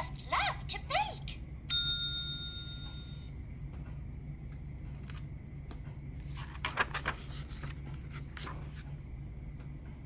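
Electronic ding from a children's sound-book button panel, played through the toy's small speaker: one steady chime held for about a second and a half, then cut off sharply. A voice is heard just before it, and paper rustles and clicks come later as a page is turned.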